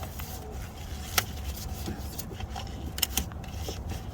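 Hand tools clicking and clinking against metal fasteners during starter removal: a few sharp, scattered clicks, the loudest about a second in and two close together near the end, over a low steady hum.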